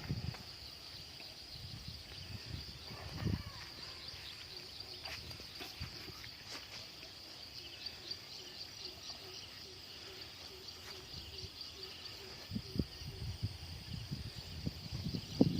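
Insects trilling steadily, a high continuous chorus. Low rumbles on the microphone come briefly about three seconds in and again near the end.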